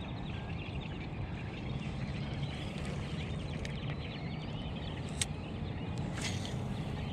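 A flock of birds chattering in many overlapping small chirps, over a steady low rumble, with a few sharp clicks after about five seconds.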